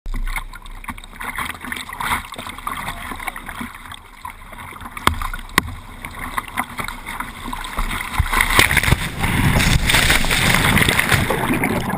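Surf water splashing and sloshing around a kayak, with a few sharp slaps; from about nine seconds in, a louder steady rush of white water.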